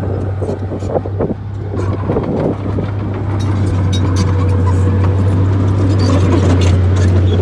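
Heavy earthmoving machine's diesel engine running steadily, with a deep constant hum, overlaid by irregular metallic clanks and rattles that grow busier from about three seconds in.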